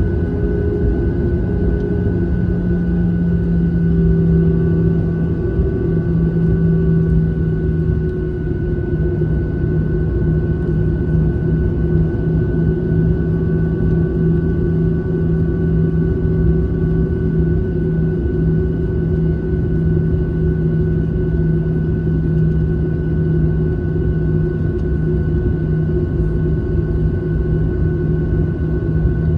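Steady airliner engine drone heard from inside the cabin: a constant low rumble with a few steady humming tones over it.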